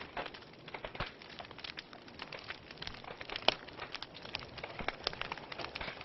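Wood fire crackling in a fireplace: irregular pops and snaps over a soft hiss, with one sharper pop about three and a half seconds in.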